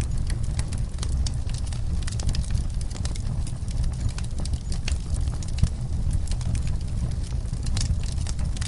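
Wood fire burning in a fireplace: many small sharp crackles and pops over a steady low rumble of the flames.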